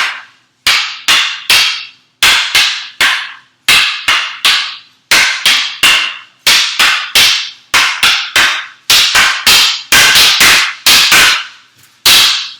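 Escrima sticks striking each other in a two-person double-stick drill, the Heaven 6 pattern: sharp wooden clacks at about two to three a second, often in quick pairs. There is a brief gap a little over three seconds in.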